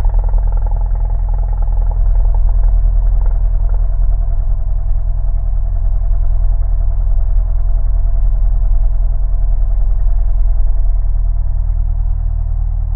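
Cessna's single piston engine running steadily at low taxi power, a constant low drone with steady overtones.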